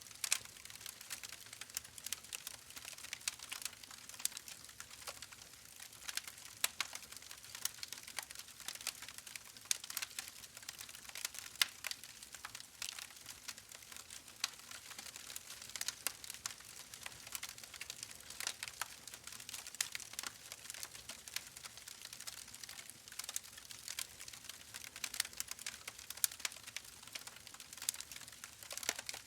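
Steady, soft crackling: dense, irregular small clicks and ticks over a light hiss, with no rhythm.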